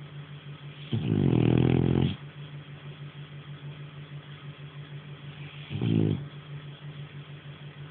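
French bulldog snoring: a long, loud, rattling snore about a second in, then a shorter one some five seconds later.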